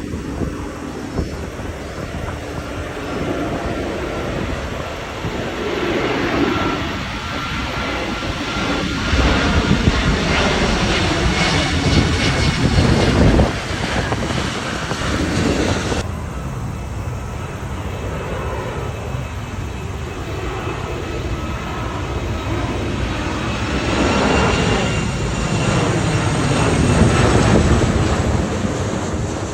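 Airliners passing low overhead: a loud engine rumble with a whining tone that swells to a peak about a third of the way in. It cuts off abruptly about halfway, and a second pass builds near the end.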